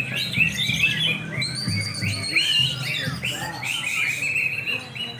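Several caged greater green leafbirds (cucak hijau) singing at once, a dense, unbroken run of quick chirps and whistles overlapping one another, over a low background murmur.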